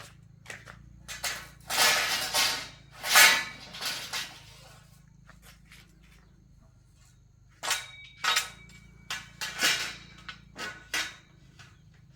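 Clattering knocks and short scrapes of hard objects being handled and set down, in a burst over the first few seconds and another run in the second half.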